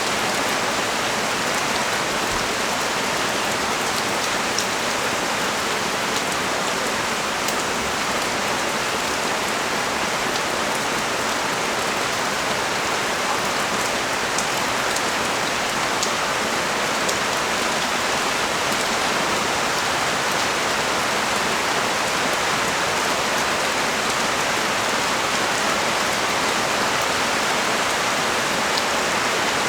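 Heavy rain pouring steadily onto a street, a dense even hiss with a few faint drip ticks.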